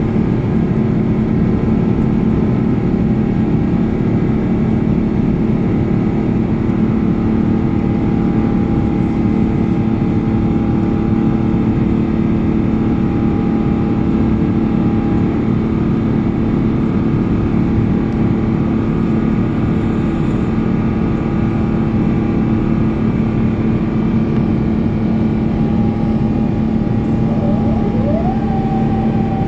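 Cabin noise of an Airbus A350-900 in flight shortly after takeoff: a steady, loud drone from its Rolls-Royce Trent XWB engines and the airflow, with an even hum held throughout.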